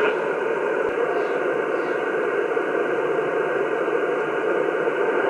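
Shortwave transceiver receive audio: steady band-noise hiss on the 15-metre band, heard through the radio's narrow voice filter while listening for replies after a CQ call.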